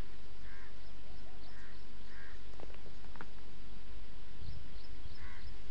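A bird calling again and again in short calls, over a steady low rumble.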